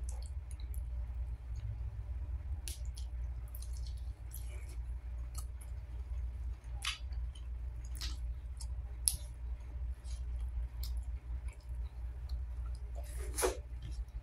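Close-miked eating of chicken adobo and rice by hand: chewing with wet mouth clicks and smacks scattered through, the loudest a longer smack near the end, over a steady low hum.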